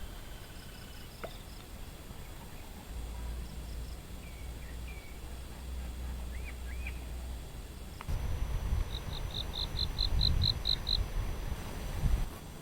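Outdoor ambience with scattered short bird chirps and whistles, then a quick run of about nine high pips in the second half. A low rumble comes in over the last four seconds and is the loudest thing there.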